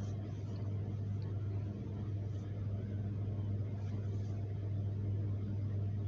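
A steady low hum with a faint background hiss.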